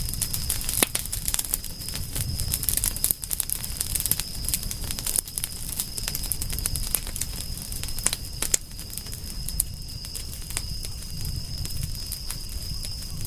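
Wood fire crackling: a dense run of sharp pops and snaps, a few louder than the rest, over a low rumble and a steady high tone.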